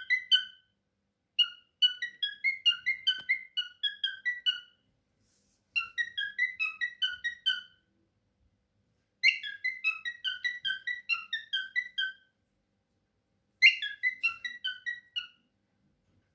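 Cockatiel whistling a song of quick, short, high notes that step up and down in pitch. It comes as four phrases of about two to three seconds, with pauses between them.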